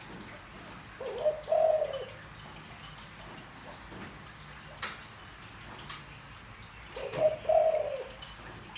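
Spotted dove cooing with a deep voice: two short coo phrases about six seconds apart.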